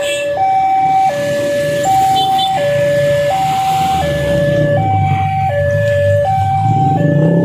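Railway level-crossing warning alarm sounding a steady alternating high-low two-tone signal, each tone about three quarters of a second long, warning that the barrier is closing for an approaching train. A low engine rumble builds underneath from about halfway.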